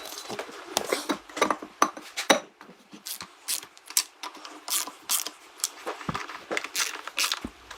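A run of irregular sharp clicks and clinks, like hand tools being picked up and set down on hard parts, with a brief quieter gap about two and a half seconds in.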